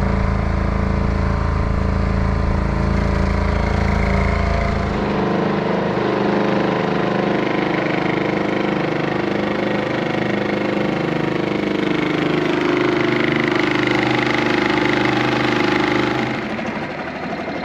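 4 horsepower Yamaha outboard motor running steadily, working against a strong river current. About five seconds in its note changes and loses its deepest part, and near the end it gets a little quieter.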